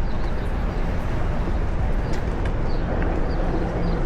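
Steady rushing wind and rumble of a Onewheel ride heard on the camera microphone, with a few faint short chirps high up.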